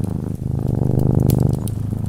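Domestic cat purring close up: a fast, even rattle that changes with each breath in and out. Sharp crackles of a wood fire sound over it.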